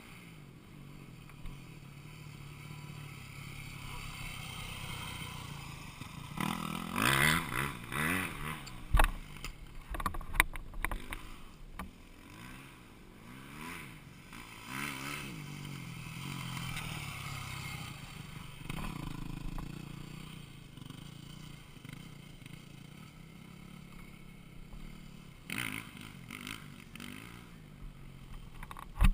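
Dirt bike engine being ridden, its pitch climbing and falling repeatedly as it revs up and eases off, with a few sharp knocks and clatter in between.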